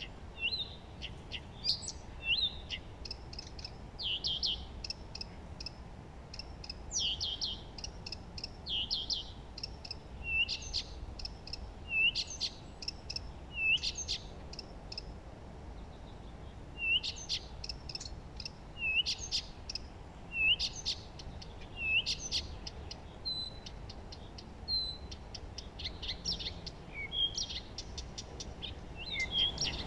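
Songbirds chirping and trilling: short, high-pitched phrases repeated every second or two, with several birds overlapping, over faint low background noise.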